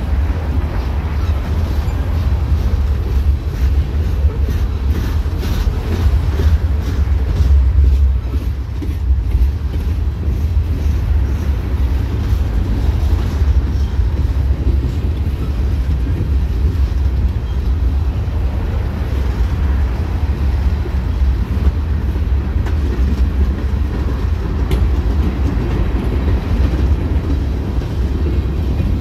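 Freight train of open-top hopper cars rolling past close by: a steady, loud low rumble of steel wheels on rail, with repeated clicks as the wheels cross rail joints, most distinct in the first several seconds.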